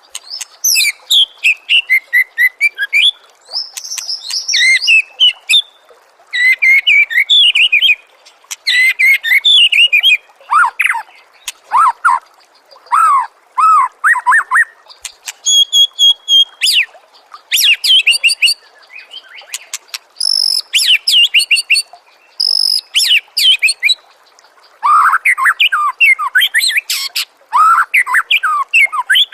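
White-rumped shama (murai batu) singing: a run of loud, varied phrases a second or two long, mixing fast high trills, chattering and slurred whistles, with short pauses between them.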